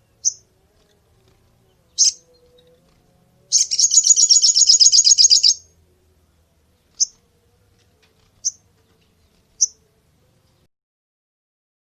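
Small songbird calling. It gives two short, high chirps, then a rapid, high trill lasting about two seconds, then three more single chirps spaced out.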